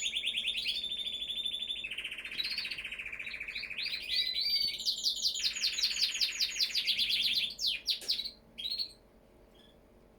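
Domestic canary singing a long run of rapid trills, each a fast repeat of one high note, switching to a new trill every second or two. The song breaks off about eight seconds in, with a few short notes after.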